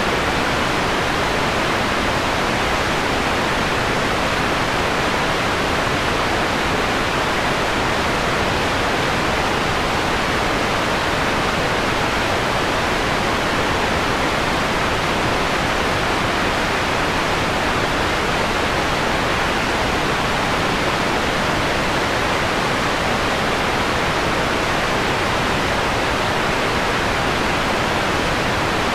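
Steady synthetic white noise, filtered to a mellower tone with the treble rolled off; it does not change.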